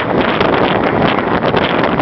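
Loud wind buffeting the microphone in a steady, gusty rush, as from filming out of a moving train.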